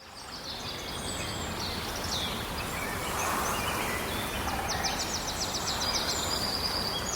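Several birds chirping and trilling over a steady background hiss, fading in at the start, with a rapid trill of repeated notes about two-thirds of the way through.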